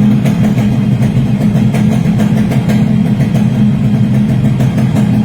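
Yamaha RXS 115 motorcycle's single-cylinder two-stroke engine idling steadily.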